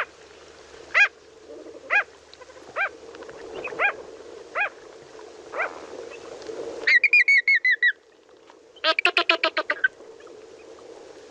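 Flamingo calls: single nasal honks about once a second, then, about seven seconds in, two quick runs of rapid honking, over a steady faint background noise.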